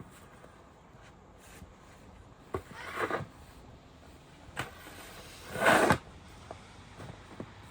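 Snow shovel scraping and scooping snow: a few separate swishing scrapes, the loudest just before the sixth second, with a short knock in between.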